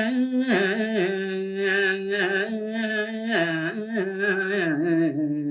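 A solo unaccompanied voice singing a Balinese tembang melody in pupuh Sinom, holding long notes and sliding slowly between them with a gentle waver.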